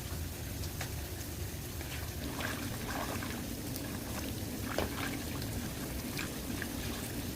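Shallow water trickling, with scattered drips and a few small splashes, the louder ones about two and a half seconds in and again near five seconds.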